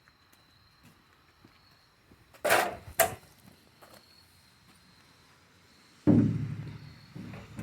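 A heavy steel truck door being handled: a scrape and a sharp knock, then a loud thud with a low ringing that dies away over about a second, as the door is set down.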